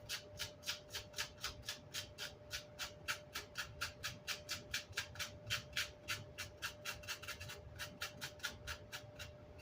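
Quick, even scrubbing strokes on amplifier grille cloth, about four a second, knocking old chipboard and glue residue off the fabric.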